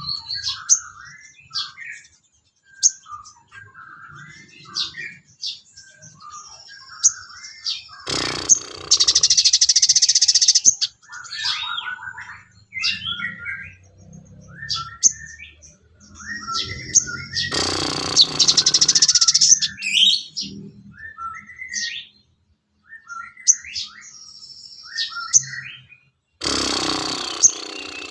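Sogon bird calling in a song-training recording: a run of short chirps and whistles, broken three times by loud harsh chattering bursts of two to three seconds each.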